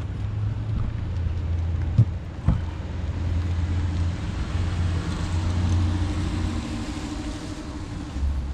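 A motor vehicle engine running with a steady low rumble, with two sharp clicks about two and two and a half seconds in.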